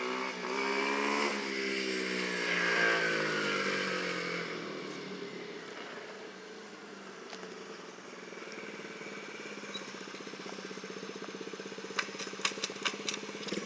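Small 110 cc dirt bike engine running as it is ridden: the pitch rises and is loudest in the first few seconds, then falls and fades as the bike moves away, and it keeps running more faintly and steadily. A few sharp clicks come near the end.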